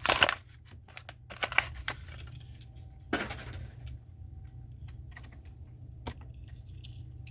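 Hot Wheels blister pack being cracked open: crackling, clicking plastic and tearing card, busiest in the first two seconds, with another crackle about three seconds in, then scattered small clicks over a low steady hum.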